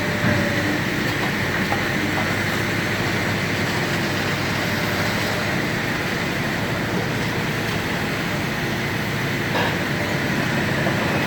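Steady mechanical rumble of heavy machinery running, with a faint steady whine on top and a few light clicks.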